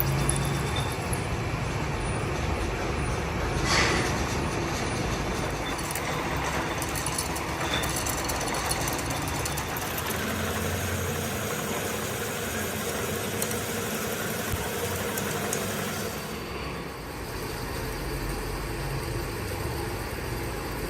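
Workshop machinery running steadily, with a sharp knock about four seconds in.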